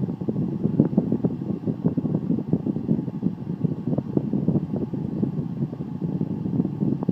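Steady rush of air and blower noise from a central air conditioning system running, with irregular gusty flutter.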